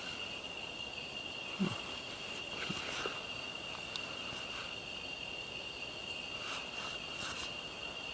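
Steady high-pitched insect chorus trilling without a break, with a few faint small knocks of handling about one and a half and three seconds in.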